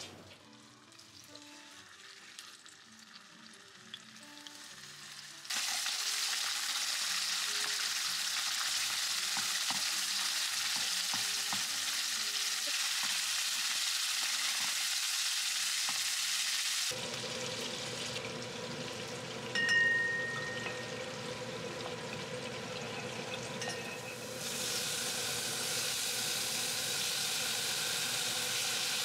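Chicken thigh pieces sizzling as they fry in oil in a pan, a steady hiss that starts suddenly about five seconds in after a quiet start. Partway through, a quieter stretch breaks it for several seconds. Then the sizzling comes back as the fried thighs go into a pot of scallions in hot oil.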